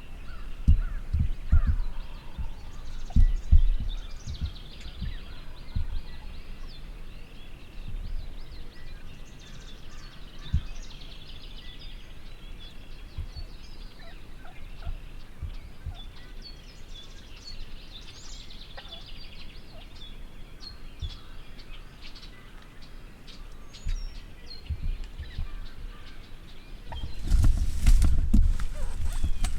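Wild turkeys gobbling among scattered songbird chirps, with a few low thumps in the first seconds. About three seconds before the end a loud burst of rustling and thumping begins.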